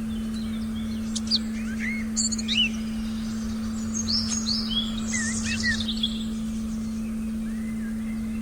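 Forest birds chirping and calling in short, quick notes, busiest from about one to six seconds in, over a continuous steady low tone and a faint low rumble.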